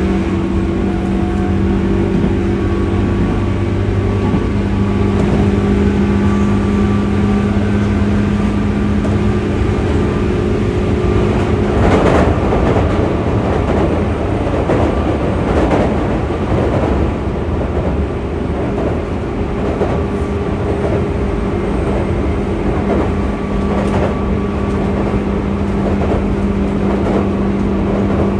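JR West 201 series electric train running, heard inside motor car MoHa 201-193: steady rail rumble with the thyristor chopper's fixed-pitch hum. The hum drops away for about ten seconds in the middle, where the wheels clack rhythmically over rail joints, then comes back near the end.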